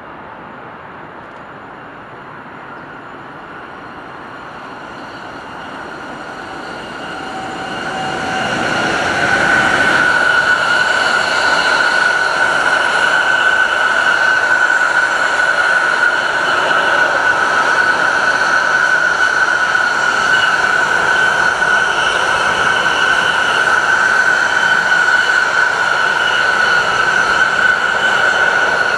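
Train approaching and then running past close by for a long stretch, with a steady high-pitched whine over the noise of the wheels.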